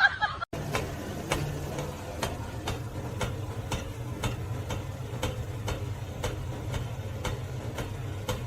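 A steady low rumble with sharp, evenly spaced ticks at about two a second.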